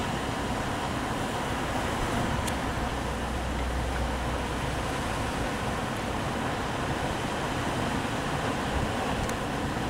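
Steady rushing noise of wind and water on a sailing boat.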